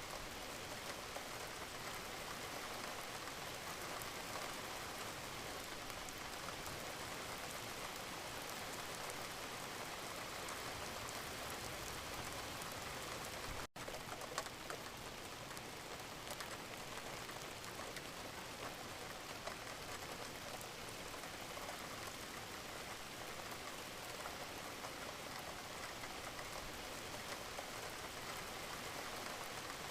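Steady rain falling, an even hiss of many small drops ticking on a surface. About halfway through the sound drops out for a split second, then resumes.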